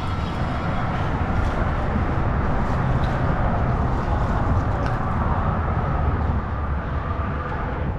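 Road traffic on a nearby bridge: a steady, fairly loud rumble of tyres and engines with a faint hum above it.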